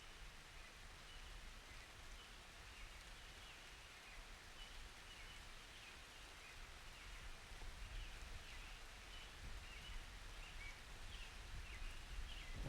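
Faint rain ambience with a low steady rumble, dotted with a long series of short high-pitched chirps or squeaks.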